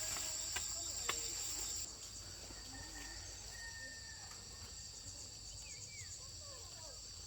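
Insects shrilling steadily in two high tones. The louder part cuts off about two seconds in, and the rest goes on more softly, with a few faint short bird chirps.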